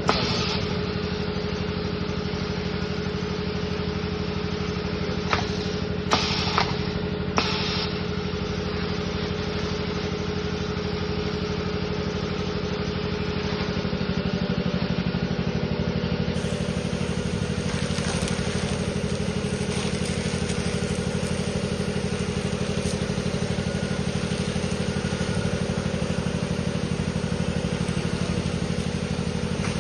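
Raincoat neck-making machine running with a steady motor hum; a few short sharp clicks about five to seven seconds in.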